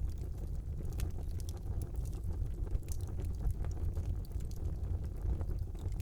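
Wood fire burning in a brick fireplace: a steady low rumble of flames with scattered sharp crackles and pops from the burning logs.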